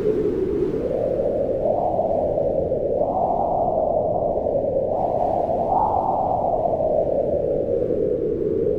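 Wind howling in a low, steady rush, its pitch swelling upward about three seconds in, peaking again around six seconds, then easing down.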